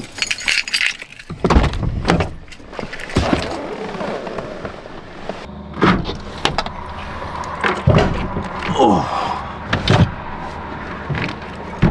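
Clatter and knocks of things being handled, with a jangle like keys. A steady low hum comes in about halfway through, fitting the truck's engine running.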